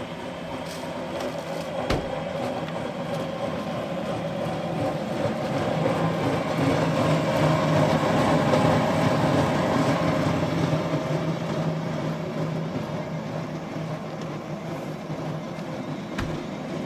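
Motorlet M701 jet turbine engine running, a steady rushing noise with a low hum that swells about six seconds in and eases back down a few seconds later.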